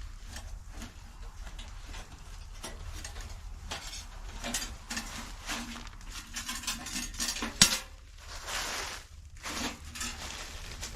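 Scattered light clicks and clinks of small objects being handled, like dishes and utensils being moved about, with one sharper click about seven and a half seconds in and a brief hiss just after it.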